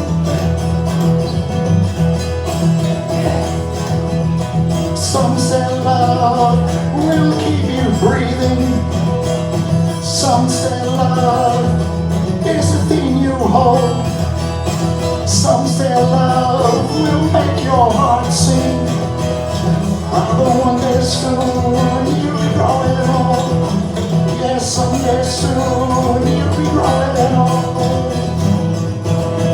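Live acoustic country-style music with no singing: guitar accompaniment under a lead melody that bends and slides in pitch, with short bright high hits every few seconds.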